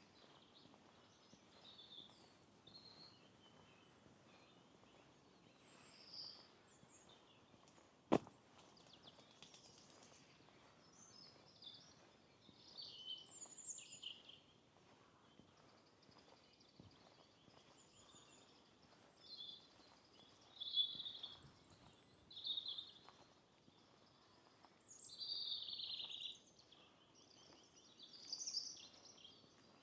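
Small songbirds singing and calling in scattered short, high phrases over a faint steady hiss, with one sharp click about eight seconds in.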